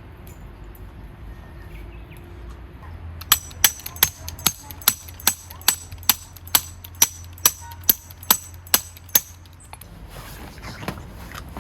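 A hammer striking a metal tent stake about fifteen times in a steady rhythm, roughly two to three blows a second, with a sharp metallic ring on each blow, driving the stake into the ground.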